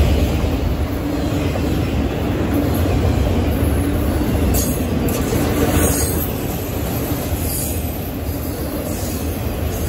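Autorack freight cars rolling past on steel wheels: a steady, loud low rumble of wheels on rail.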